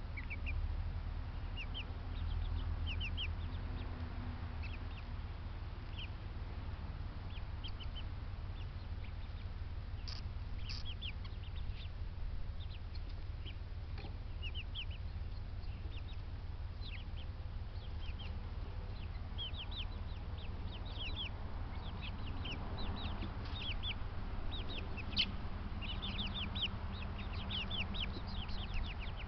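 Yard birds chirping and peeping, many short high chirps that grow much busier in the second half, over a steady low rumble.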